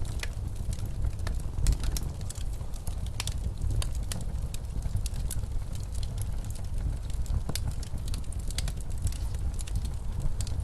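Wood fire crackling in a fireplace, with many irregular sharp pops and snaps, over a steady low rumble of blizzard wind.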